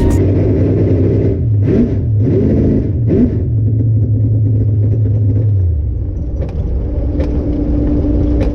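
Car engine running loud, with revs rising and falling in the first few seconds, then a steady drone that drops away about six seconds in.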